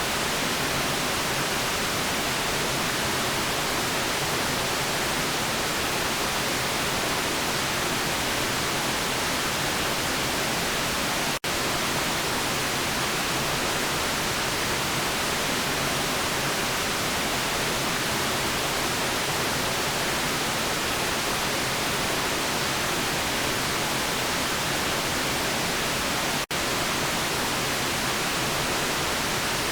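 Steady white noise, an even hiss without tones or rhythm, cutting out for an instant twice.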